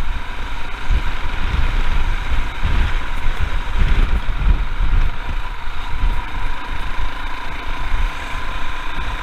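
Royal Enfield Himalayan's single-cylinder engine running as the motorcycle is ridden along, under a steady low rumble of wind buffeting the microphone.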